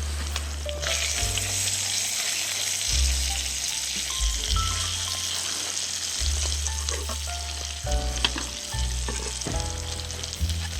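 Food sizzling loudly as it fries on a hot surface, the sizzle starting suddenly about a second in. Background music plays underneath.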